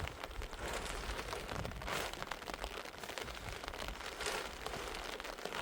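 Rain falling steadily, a dense patter of drops, with two brief louder swells about two and four seconds in.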